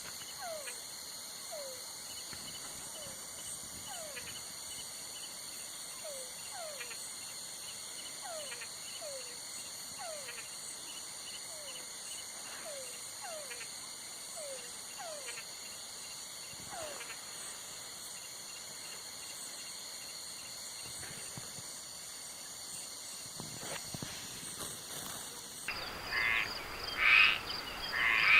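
Night wildlife chorus: a steady high-pitched insect trill, with short falling calls repeated about once a second for the first half. Near the end it changes abruptly to loud, rhythmic frog croaking.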